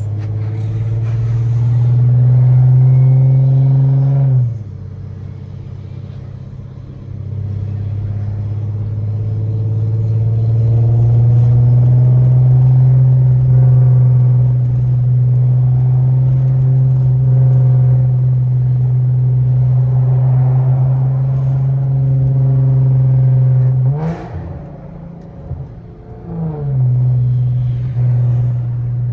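Infiniti Q50's 3.7-litre V6 with a straight-through Y-pipe and test pipes (catalytic converters removed), droning loudly under steady throttle while driving. It eases off about four seconds in and again near the end, then builds back up as the throttle is reapplied.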